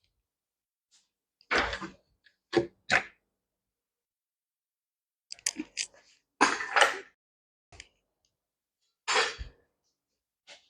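Scattered knocks and clunks, about eight in all, a few of them longer scraping clatters, as a small two-stroke rototiller is handled and set down on the ground.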